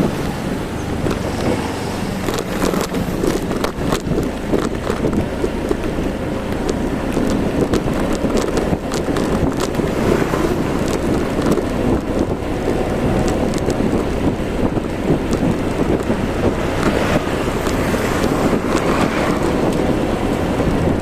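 Riding a motorbike: wind buffeting the microphone in a steady rush over the bike's engine and road noise, with scattered small knocks and rattles.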